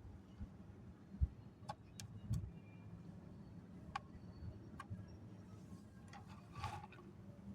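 Dry namkeen snack pieces being sorted by hand: scattered small sharp clicks and soft low taps as pieces are picked up and dropped, with a brief rustle near the end.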